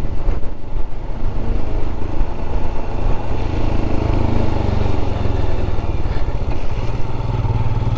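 Royal Enfield Scram 411 motorcycle on the move, its single-cylinder engine running steadily under a constant rush of wind and rain noise.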